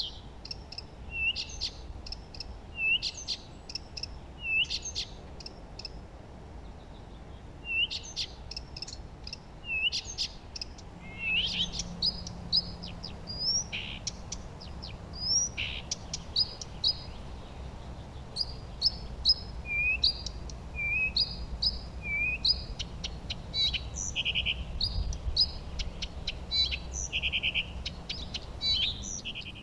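Songbirds singing: a run of short, high chirps and whistled notes, some sweeping up in pitch, with a fast trill late on, over a faint low rumble.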